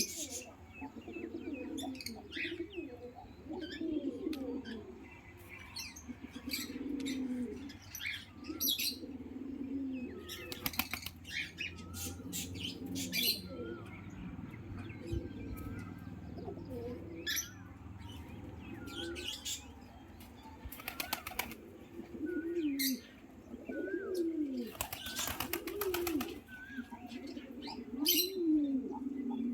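Indian fantail pigeons cooing over and over, each coo a low call that rises and falls, with bursts of wing flapping and rustling and a few small high chirps between them.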